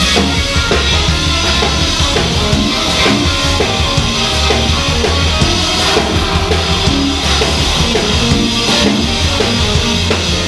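Rock band music with a drum kit keeping a steady beat over a heavy bass line, played by a live band.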